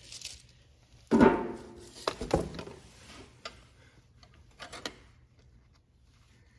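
Handling noises from working by hand at the engine: a loud knock about a second in, a second knock about a second later, then a few light ticks and rubs.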